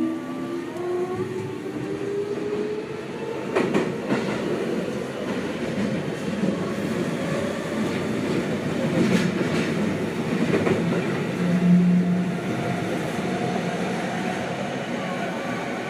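Seibu 6000 series electric train running, heard from inside the car. Its Hitachi GTO VVVF inverter-motor tones rise and die away in the first couple of seconds, and the wheels give several sharp clacks over rail joints over a steady running rumble.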